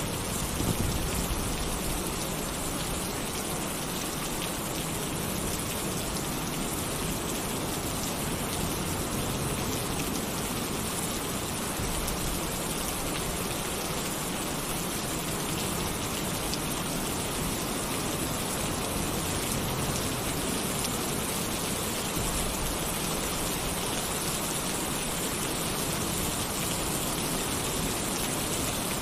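Heavy rain drumming steadily on a tin roof, a dense even hiss with a brief louder swell just under a second in.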